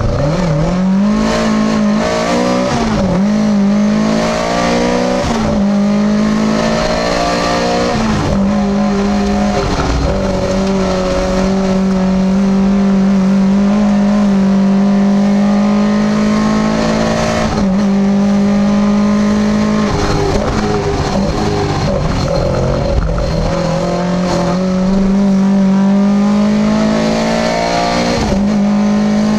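Lada VFTS rally car's four-cylinder engine heard from inside the cabin, revving hard under full acceleration: the pitch climbs steadily, then drops sharply at each gearshift, several times over.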